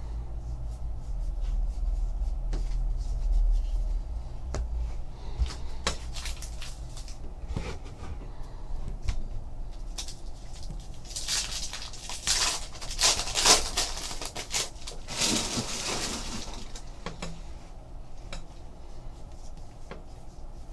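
Trading card packs and cards being handled: scattered small clicks and taps, with two louder stretches of rustling a little past halfway through.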